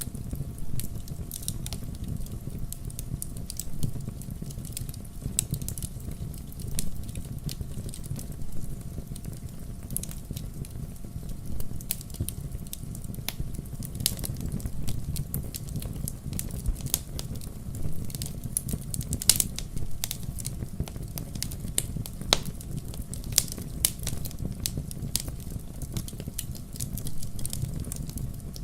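Burning firewood crackling: irregular sharp pops and crackles over a low, steady rumble of the fire.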